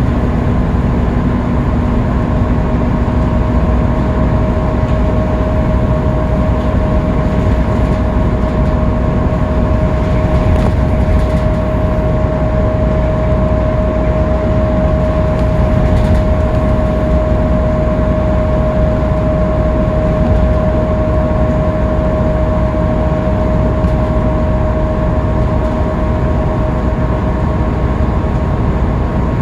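Interior of a Scania K310UB city bus cruising steadily at freeway speed: a constant engine and road drone with a steady high whine over it.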